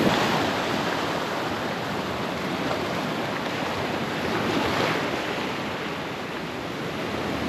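Ocean surf washing onto the shore at high tide, a steady rush of breaking waves that swells slightly about five seconds in.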